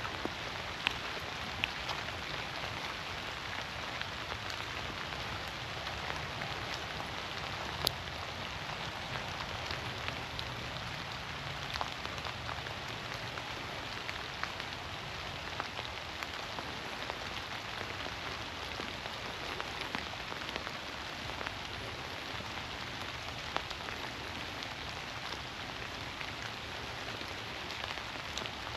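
Steady rain falling through forest trees, with scattered louder drops striking close by, one especially sharp about eight seconds in.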